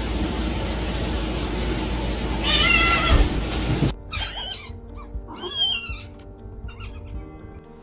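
Domestic cat meowing: one meow over a rushing noise and low rumble, then, after an abrupt change, two longer wavering meows over background music.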